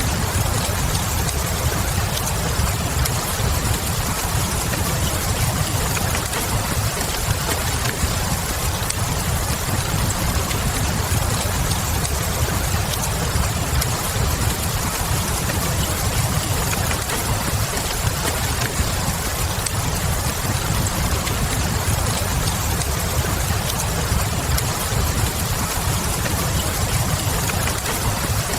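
Steady rain with a low rumble, mixed with faint crackling from a log fire in a fireplace.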